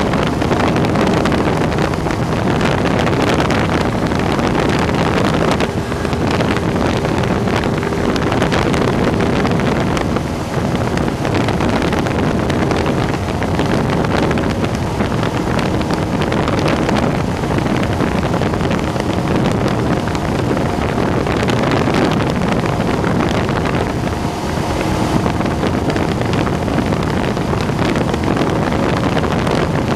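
Cessna 172's piston engine and propeller running steadily, heard inside the cabin together with wind noise.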